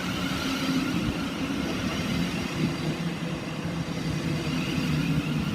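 Thameslink Class 700 electric multiple unit arriving at the platform: a steady electric hum with higher whining tones from its traction equipment.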